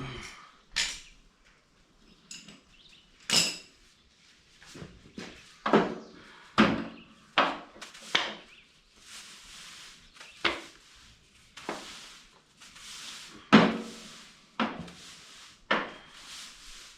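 A broom scraping and knocking while cleaning out debris from under a riding mower's deck: about a dozen irregular sharp knocks with scraping, brushing noise between them.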